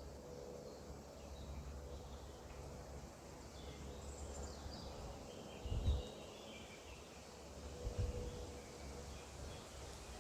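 Faint birds chirping over a steady low rumble of outdoor background noise, with two brief low thumps in the second half.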